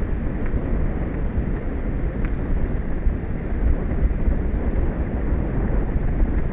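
Wind buffeting an outdoor microphone, a steady rumbling noise, with a faint tick about two seconds in.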